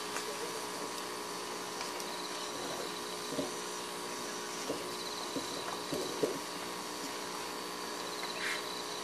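Steady hum of the room with a few faint knocks and rustles, the largest about six seconds in; no music playing.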